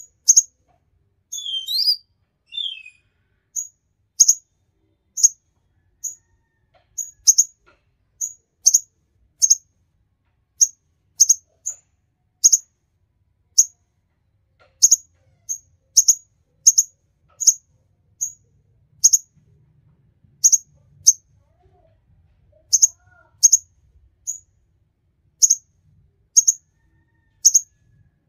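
A konin songbird repeating a short, high, sharp chirp about once or twice a second, with a brief lower warbling phrase about a second and a half in.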